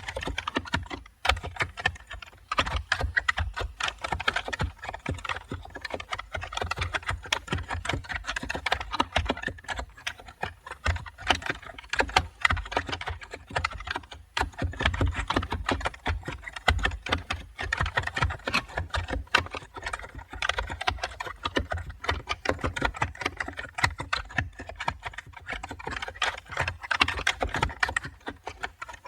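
Computer keyboard typing: a fast, continuous run of key clicks with a couple of brief pauses.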